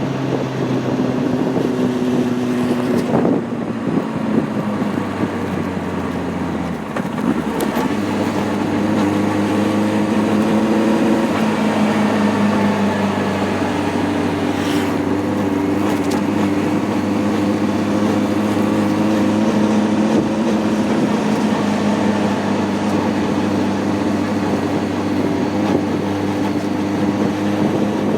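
Honda CB600F Hornet's inline-four engine running under way. Its note steps and shifts a few times in the first dozen seconds as the revs change, then holds steady.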